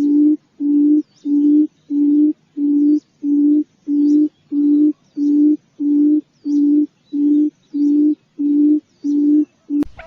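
Quail lure call: one low hooting note repeated steadily, a little over twice a second, cut off by a click near the end. A faint high chirp recurs about once a second behind it.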